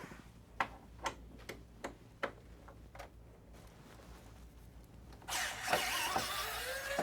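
Screws being worked out of a PS5's casing with a screwdriver: a handful of sharp small ticks about half a second apart, then a louder whirring noise with a slowly rising pitch for the last second and a half or so.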